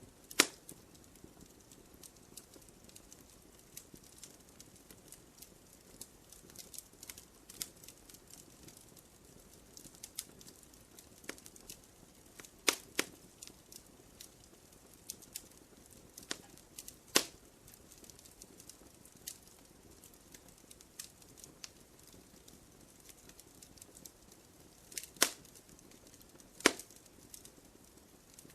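Fireplace fire crackling: scattered sharp snaps and pops over a faint hiss, with a handful of louder pops standing out.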